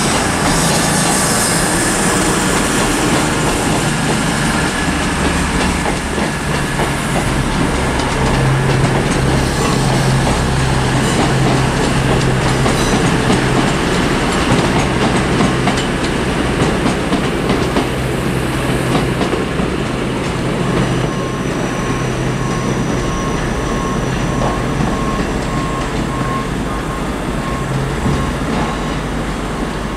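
A train running on the track close by, with a steady low hum throughout. Over the last third a faint beep repeats at an even pace.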